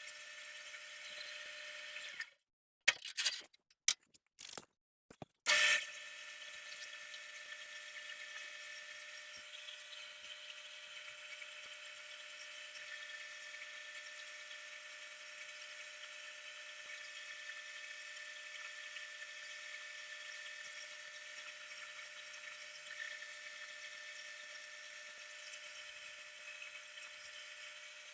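Faint, steady whir of a power tool running in a woodshop, broken by a few brief dropouts and short louder blips between about two and six seconds in.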